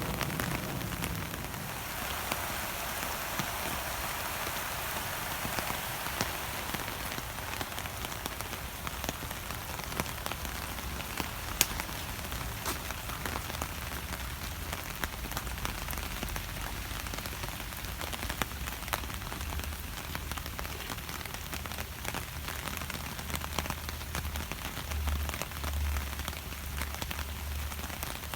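Steady rain falling, with many sharp single drops ticking close by; a low rumble comes up in the last few seconds.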